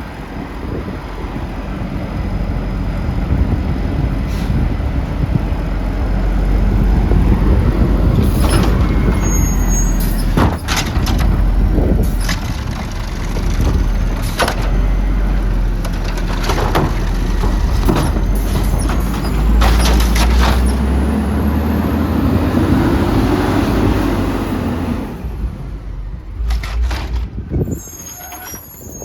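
Garbage truck running close by, its engine a steady low rumble, with a string of sharp clanks and knocks. About twenty seconds in a rising whine builds, then cuts off, and the engine noise falls away near the end.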